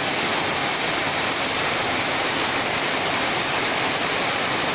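Heavy downpour: a dense, steady hiss of rain.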